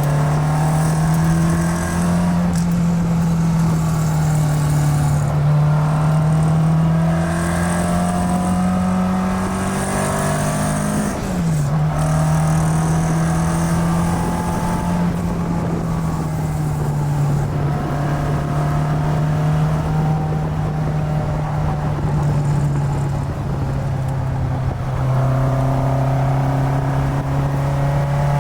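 1965 Alfa Romeo Giulia Super's twin-cam four-cylinder engine running under way, heard from inside the cabin. The engine note climbs slowly, drops sharply at a gear change about eleven seconds in, then holds steady at cruise.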